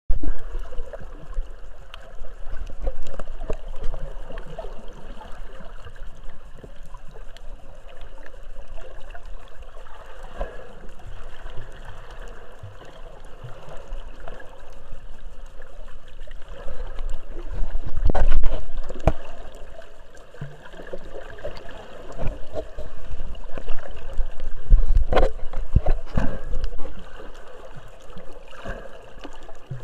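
Sea water sloshing and gurgling, with small clicks throughout and heavier low thumps about 18 and 25 seconds in.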